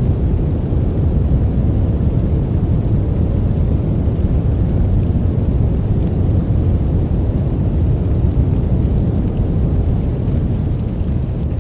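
Steady, deep rushing noise with no rhythm or tune, most of its weight at the low end: a continuous white-noise sleep track.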